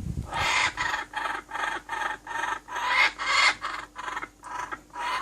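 A bird calling in a steady series of harsh, raspy notes, roughly two or three a second.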